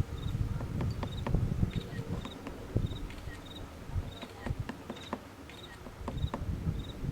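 Woodpecker pecking: irregular sharp taps, over a steady series of short, high chirps, one about every two-thirds of a second.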